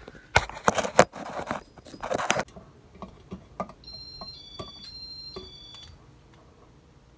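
Handling noise from a cap being fitted to a ceiling fan: a quick run of sharp clicks, knocks and scraping, then a few lighter clicks. About four seconds in, a couple of seconds of high squeaky tones that step between pitches.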